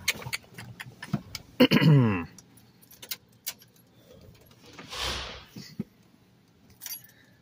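Car keys jangling and clicking as the ignition key is readied for a cold start, with a loud, short falling-pitched sound about a second and a half in and a dull thump around five seconds.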